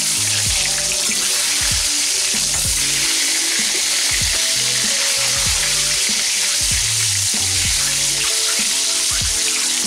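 Whole boiled eggs frying in hot mustard oil, a steady loud sizzle as they brown.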